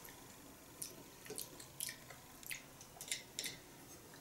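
Faint chewing and soft mouth clicks of a person eating forkfuls of fried potato and zucchini, with scattered short clicks about once or twice a second.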